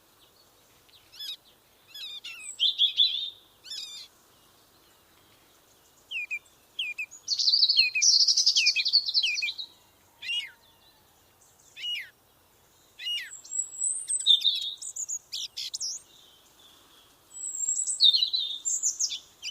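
A songbird singing a varied song in separate phrases of high chirps, quick down-slurred notes and buzzy trills, with short pauses between phrases.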